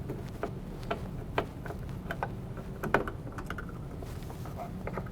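Light, irregular clicks and ticks of a Phillips screwdriver turning out the screws of a refrigerator's top hinge cover, with one sharper click a little before three seconds in.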